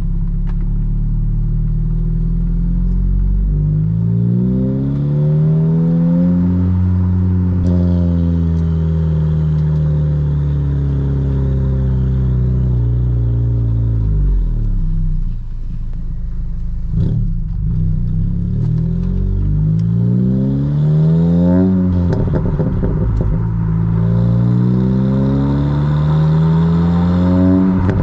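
2022 Honda Civic Si's turbocharged 1.5-litre four-cylinder, with a 27WON downpipe and the factory exhaust, heard at the exhaust while driving. The engine note climbs under throttle, then eases and falls off. It climbs hard again, drops sharply at a gear change a little past the middle, and climbs once more.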